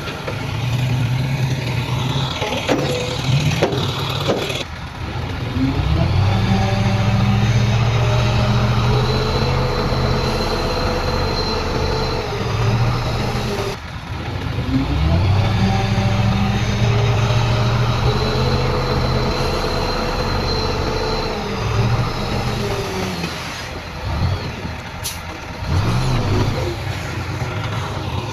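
Heavy diesel engine of earthmoving machinery, revving up and holding high under load twice, for about seven seconds each time, then dropping back. A few short sharp knocks near the start and one near the end.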